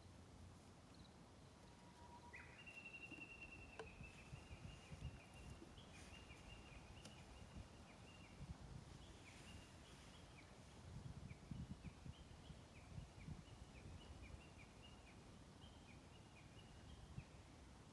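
A bird singing faintly: a long held whistle about two seconds in, then a long run of short repeated notes, each slurring downward, under a faint low rumble.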